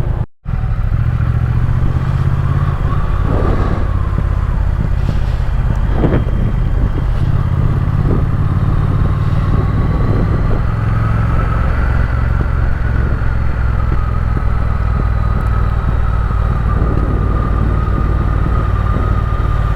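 Triumph Speed Twin parallel-twin engine running steadily under way on the ride, with a faint steady whine over it. The sound cuts out for a split second just after the start.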